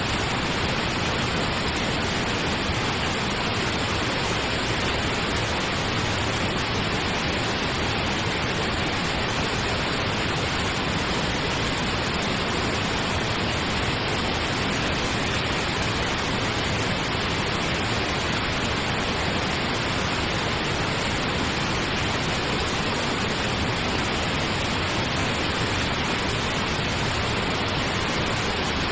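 Steady pink noise: an even, unchanging hiss across the whole range, played continuously as a sleep sound.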